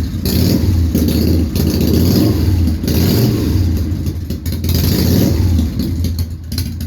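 Harley-Davidson Softail V-twin engine running just after start-up, its revs rising and falling slightly. The freshly adjusted primary chain makes no noise; it is quiet over there.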